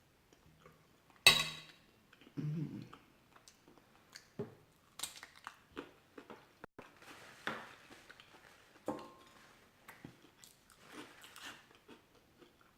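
Close-miked chewing and wet mouth clicks from a person eating. About a second in comes one sharp crunching bite, the loudest sound.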